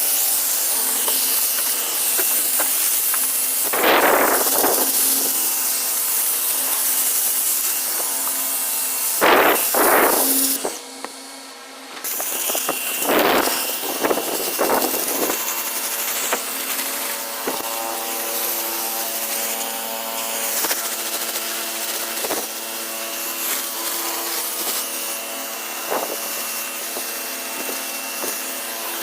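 A small motor running steadily with a rasping hiss, rising in several louder surges and dropping away briefly about eleven seconds in.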